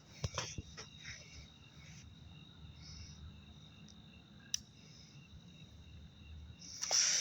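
Crickets chirping steadily with a few small clicks. Near the end a loud hiss starts as a lit ground-spinner firework catches.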